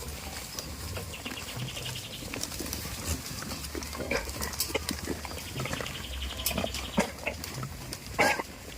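Goats making short grunting calls with one louder call about eight seconds in, amid scattered clicks and knocks over a low steady hum.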